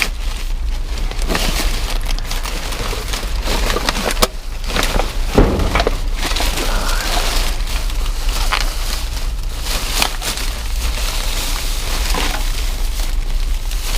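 Rummaging through trash in a dumpster: continuous crackling and rustling of plastic and packaging being handled, with a couple of louder knocks about four to five and a half seconds in.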